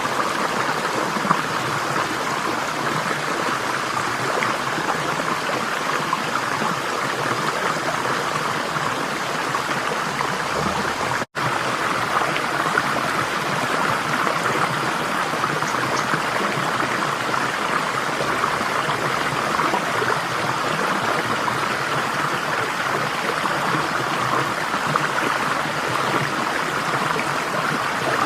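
Flowing water running steadily, an even rush of a stream. It cuts out completely for a split second about eleven seconds in, then resumes unchanged.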